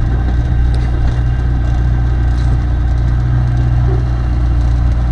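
Light aircraft engine running at a steady, unchanging speed.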